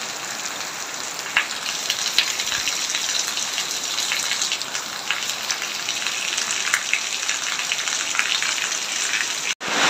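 Rain falling steadily on leaves and wet ground: an even hiss with the patter of many individual drops. It cuts out for an instant near the end.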